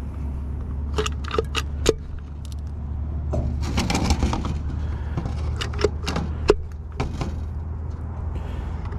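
A few sharp metallic clicks and clinks with a short stretch of scraping and rattling about four seconds in, over a steady low hum.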